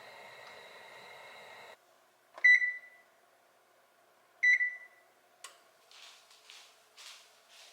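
A steady electronic appliance hum cuts off about two seconds in. Two electronic beeps follow about two seconds apart, each ringing briefly. Soft repeated rustling taps come near the end.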